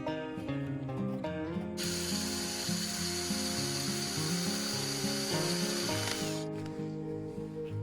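A power tool running on metal for about four and a half seconds, starting about two seconds in and stopping sharply, over acoustic guitar background music.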